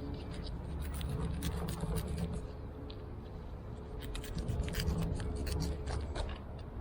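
Knife cutting through a mahi-mahi being filleted, a run of short scrapes and clicks as the blade works along the fish.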